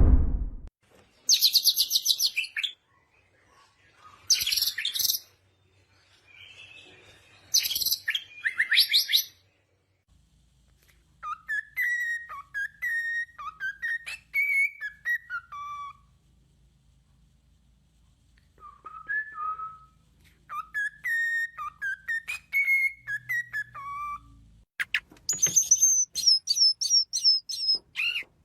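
Nightingale singing in separate phrases with pauses between them: fast, rattling high trills early on, then two runs of short whistled notes that slur up and down, and a rapid series of high repeated notes near the end.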